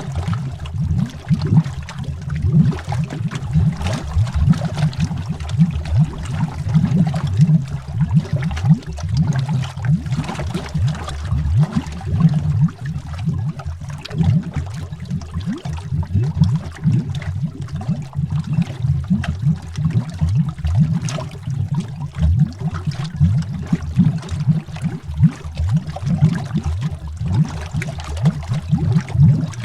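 Underwater bubbling: a dense, continuous stream of low bubbles gurgling, with irregular small pops and no pause.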